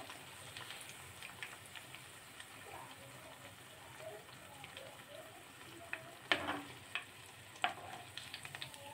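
Mustard-flower fritters frying in hot oil in a kadai: a faint sizzle with small scattered crackles. A metal slotted spatula lifts the fried fritters out of the pan, clicking sharply against it twice in the second half.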